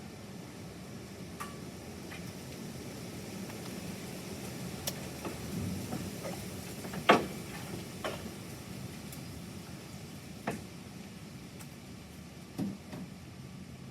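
Steady hiss of light rain with scattered sharp drip-like ticks, about six of them, the loudest about seven seconds in.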